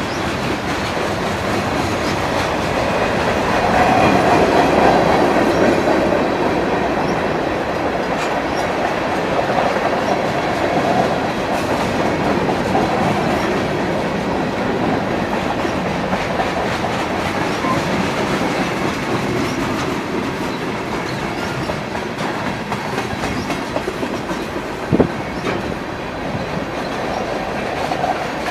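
Freight train rolling through a grade crossing, its cars passing with a steady rolling rumble that swells a few seconds in. A single sharp knock sounds a few seconds before the end.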